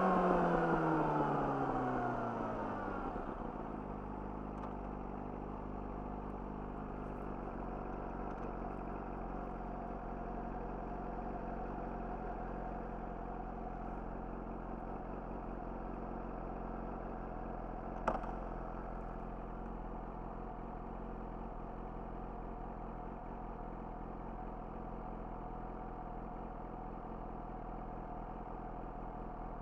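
Yamaha YZF-R6 inline-four engine through an Akrapovic slip-on exhaust, its revs falling away as the throttle is closed, then settling to a steady idle. A single sharp click about eighteen seconds in.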